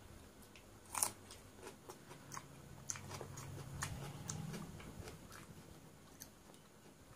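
Close-up chewing of a mouthful of soaked rice with raw red onion: wet mouth clicks and crunches, the sharpest crunch about a second in.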